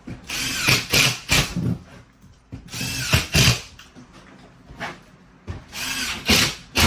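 Power drill driving drywall screws, in three short runs about three seconds apart.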